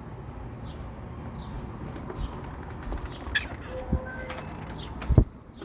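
Faint short bird chirps over a steady outdoor hiss, with a few sharp knocks and clicks, the loudest just before the end.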